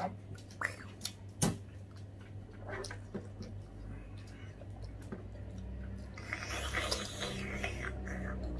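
People biting into and chewing juicy watermelon slices: wet mouth sounds and scattered sharp clicks that thicken into a denser, hissier chewing noise about six seconds in, over a steady low hum.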